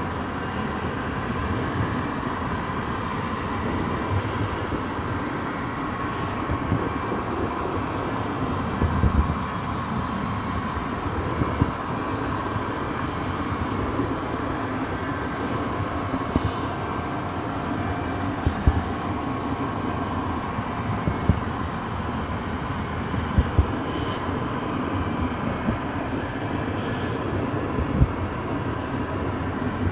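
A train running: a steady noise with scattered sharp knocks every few seconds.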